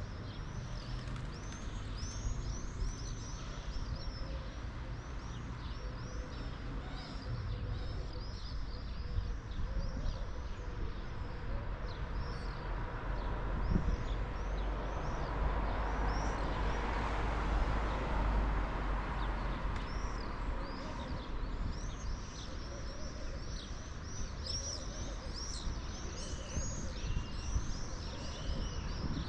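Small songbirds chirping and twittering in a busy chorus over a low outdoor rumble. A broad rushing noise swells and fades in the middle, while the chirps thin out.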